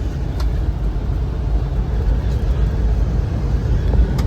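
Steady low road rumble heard from inside a moving car, tyres and engine droning, with a couple of faint clicks.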